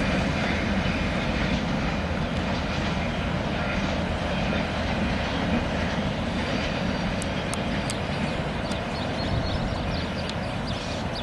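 KiwiRail freight train rolling past, a steady rumble of its wagons' steel wheels on the rails, with a few short high ticks in the second half.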